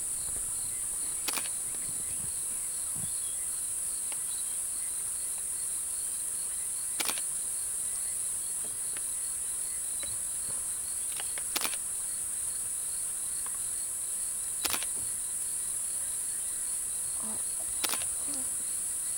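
A steady, high-pitched chorus of trilling insects, with a second insect pulsing rapidly at a lower pitch. Five sharp clicks stand out over it, a few seconds apart.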